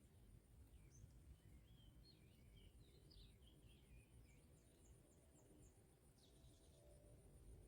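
Faint bird twittering over low background rumble: a run of warbled chirps, then a quick series of short high chips, with a thin steady high whine underneath.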